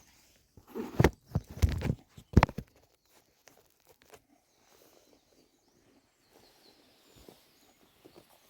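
About six sharp knocks in quick succession, some in close pairs, over roughly two seconds, then only faint scattered ticks.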